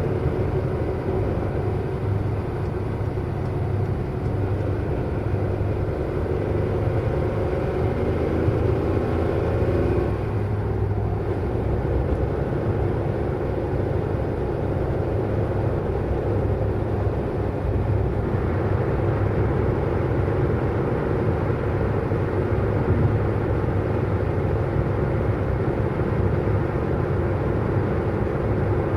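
Car driving at speed: a steady engine hum under road noise, the engine note changing about ten seconds in and the tyre and road hiss getting stronger from about eighteen seconds in.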